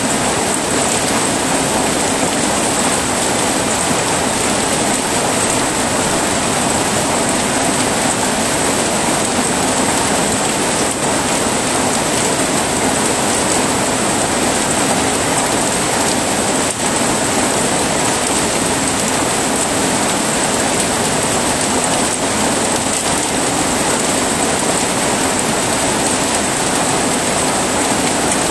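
Steady heavy rain, an even hiss that holds constant throughout.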